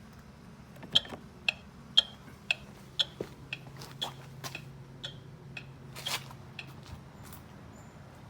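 Rastar toy Lamborghini making sharp ticks about twice a second, loudest at first and fading after about four seconds, followed by a louder click about six seconds in.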